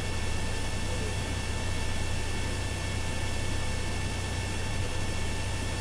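Steady hiss and low electrical hum of a police radio recording between transmissions, with a few faint steady whining tones.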